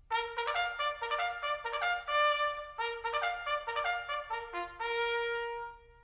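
Short brass melody of quick notes in two phrases, ending on one held note that fades out near the end.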